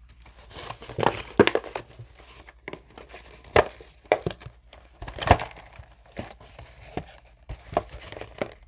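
Food containers and paper packaging being handled on a table: irregular crinkling and sharp knocks, loudest about a second and a half in and about five seconds in.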